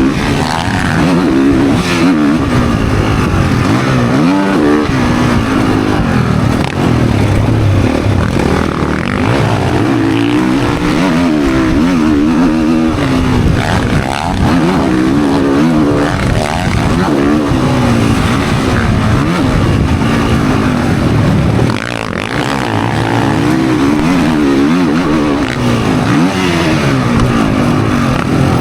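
Motocross dirt bike engine racing on the track, its pitch rising and falling again and again as the throttle is opened and closed through the gears.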